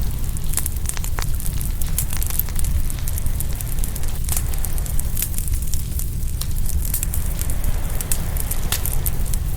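Open wood fire crackling and popping, with irregular sharp snaps a few times a second over a steady low rumble.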